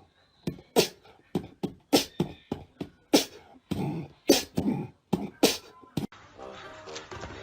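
A puppy yapping: about a dozen short, sharp yaps at uneven spacing. About six seconds in they cut off and music takes over.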